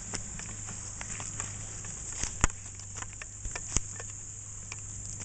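Irregular light clicks and crunches of footsteps on twigs and debris on a creek bank, with two sharper snaps near the middle, over a steady high hiss.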